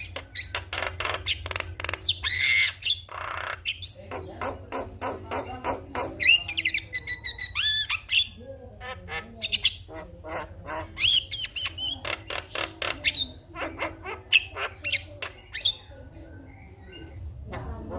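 Javan myna (jalak kebo) calling: a rapid run of harsh clicks and chatters mixed with squawks and whistled notes, with a short lull near the end.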